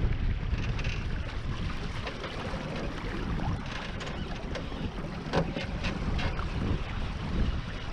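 Wind buffeting the microphone over water rushing along the hull of a Beneteau First 20 sailboat under way, with a few short sharp slaps about halfway through.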